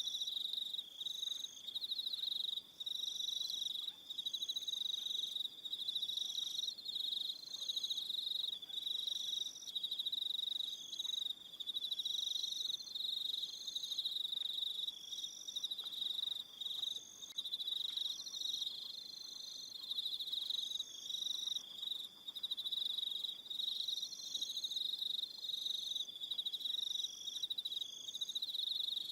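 Evening chorus of crickets: a steady high-pitched trill that drops out briefly now and then, with a second, higher chirp repeating about once a second.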